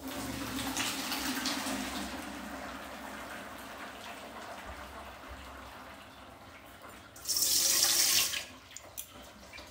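Boiled rice and its hot starchy cooking water poured into a strainer: water splashing and draining, starting suddenly and slowly tailing off. About seven seconds in, a louder, brighter splash of water lasts about a second.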